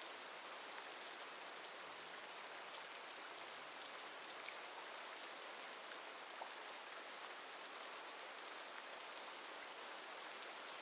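Steady, fairly quiet rain falling, with an occasional single drop standing out.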